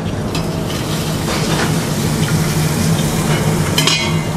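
Garlic paste sizzling in hot oil with mustard seeds, urad dal and cumin in a steel pot, the tempering stage of sambhar. A metal spatula stirs and scrapes against the pot, loudest about four seconds in, over a steady low hum.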